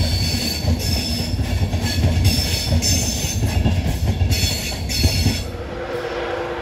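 LNER Class 91 electric train with Mark 4 coaches rolling past, its wheels rumbling on the track with high squeals that come and go. About five and a half seconds in, the sound changes abruptly to a steadier, quieter hum from another Class 91 locomotive.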